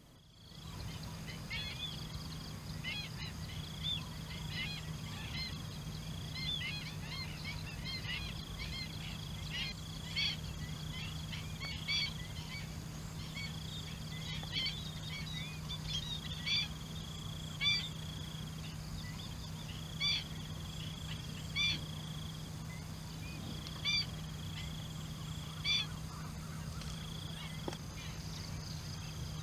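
Outdoor field ambience: a steady high insect drone over a low steady hum, with a quick string of short calls in the first half, then single short sharp calls repeating about every two seconds.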